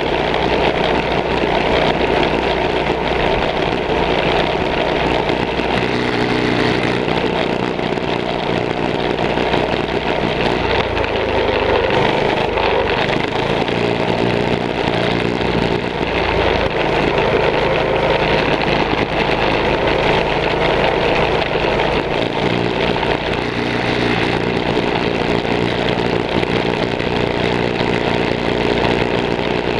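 Mini bike engines running during a race, a steady unbroken engine drone.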